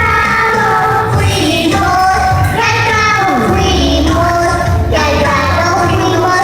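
A young girl singing into a microphone over a recorded backing track with a steady bass line.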